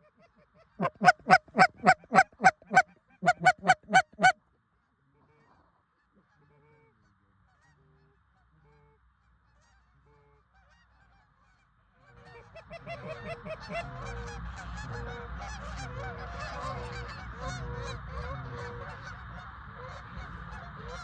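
About a dozen loud, quick goose honks in two runs, then a quiet stretch, and from about twelve seconds in a large flock of Canada geese honking together in a dense, steady chorus.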